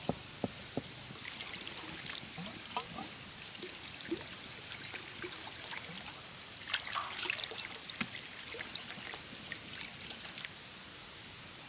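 Water dripping and trickling, many small drops plopping, with a denser cluster of drops about seven seconds in, over a steady hiss. The drops stop about ten seconds in, leaving only the hiss.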